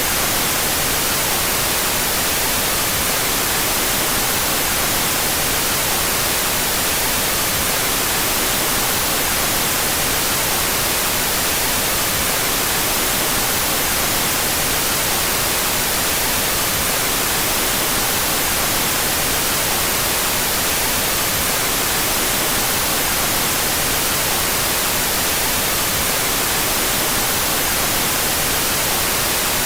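Continuous synthetic white noise with its two stereo channels out of phase: a steady, even hiss that never changes.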